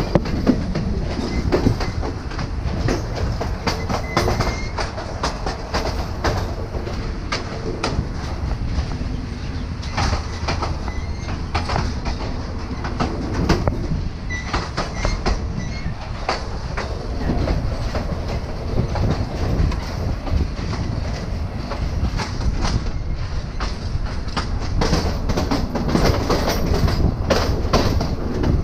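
Passenger train pulling out of the station, heard from an open carriage window: a steady low rumble with an irregular run of sharp wheel clacks over the track.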